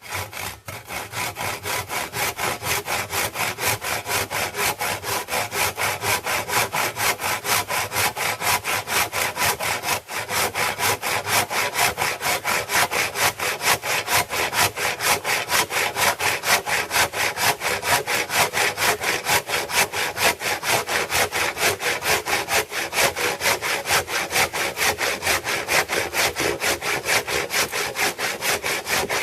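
Hand saw cutting through a dry, standing-dead pine trunk in a steady rhythm of quick back-and-forth strokes, with a brief pause about ten seconds in, bucking the felled tree into short firewood logs.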